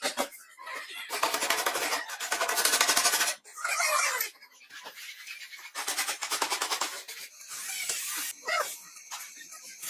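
Several bursts of fast, rhythmic rasping and scraping from a hand tool working metal bodywork, with short pauses between them.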